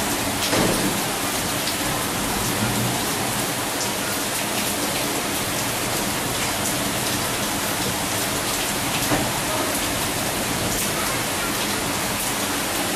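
Monsoon rain falling steadily: an even hiss of rain with many small drop ticks scattered through it.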